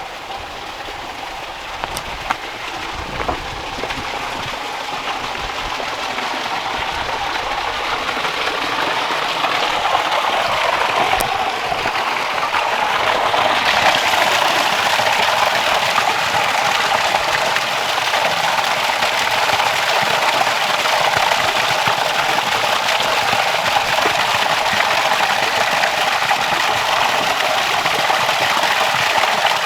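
Steady rush of water from a small waterfall, growing louder over the first dozen seconds and then holding steady. A few light knocks come about two and three seconds in.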